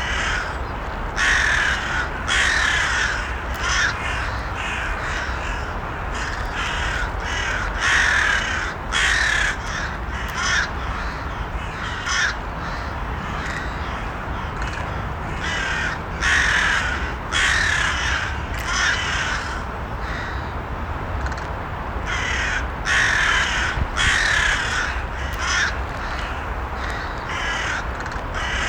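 Crows cawing: many short, harsh calls at irregular intervals, sometimes in quick runs, over a steady low background noise.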